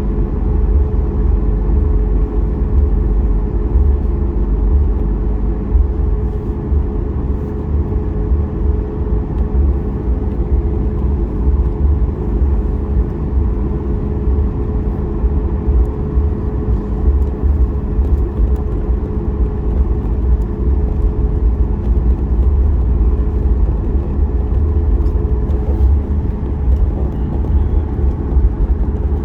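Cabin noise of a Boeing 737 MAX 8 taxiing, its CFM LEAP-1B engines at idle: a steady deep rumble with a constant hum.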